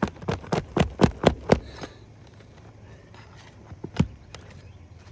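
Hammer blows during roof shingle repair work: a quick run of sharp strikes, about four a second, that stops about a second and a half in, then one more strike about four seconds in.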